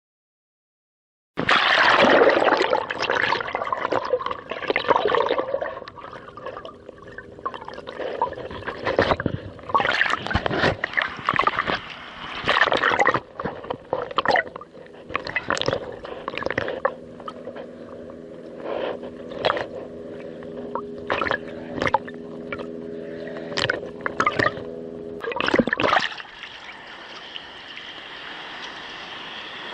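Seawater sloshing and splashing against a kayak among rocks, starting suddenly about a second in, with many irregular sharp splashes. A steady low hum runs underneath through the middle and stops near the end, leaving a softer wash of water and wind.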